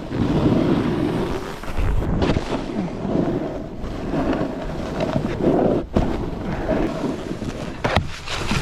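Snowboard sliding and carving over snow, a steady rumbling hiss that swells and eases with the turns, mixed with wind buffeting the microphone at riding speed.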